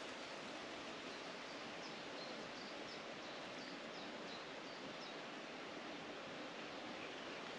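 Steady outdoor rustling noise, with a small bird calling faintly in a run of short, high chirps from about two to five seconds in.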